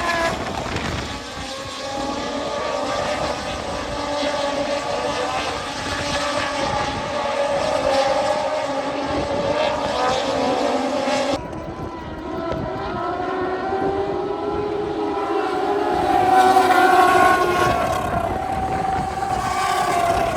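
Racing motorcycle engines screaming past on the circuit, their pitch rising and falling as they accelerate and brake. About eleven seconds in the sound changes abruptly and turns duller.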